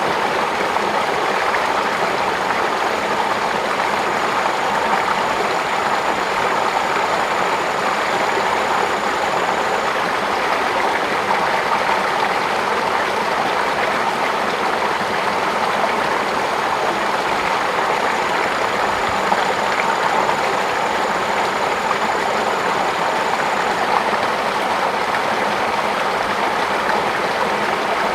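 Steady rushing of flowing water, as in a stream or irrigation channel. A thin, high, steady whine comes in twice, each time for several seconds.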